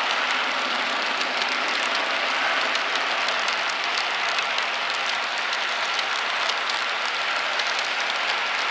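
Model train running on the layout track: a steady rattling hiss of wheels on rail, with many small clicks.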